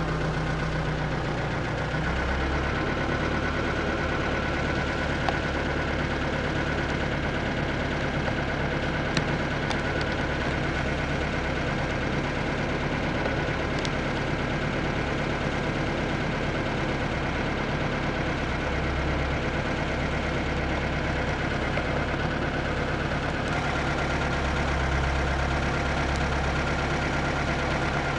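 A steady mechanical hum: a constant low drone with a faint higher whine.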